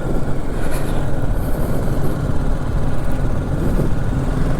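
Motorcycle being ridden uphill, its engine running under a steady low rumble of wind on the rider's microphone.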